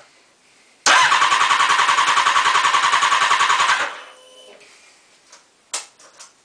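Triumph TT600 inline-four with a Scorpion exhaust, heard right at the exhaust outlet: it bursts into loud, evenly pulsing running about a second in, holds steady for about three seconds without revving, then cuts off.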